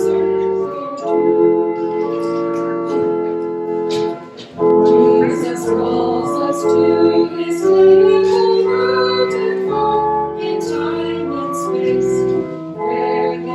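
Church organ playing a hymn in held chords with low pedal bass notes, voices singing along.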